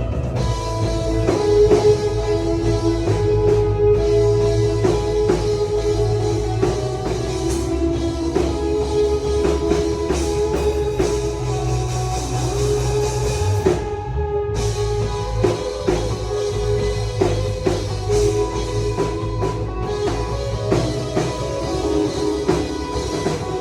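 A live band jamming, with drum kit and guitar playing a steady rock groove.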